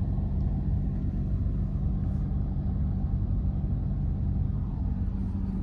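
Idling engine: a steady low rumble with a constant hum underneath.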